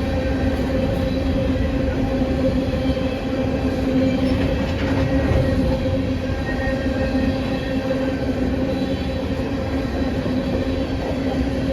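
Train running, a steady rumble with a constant low hum.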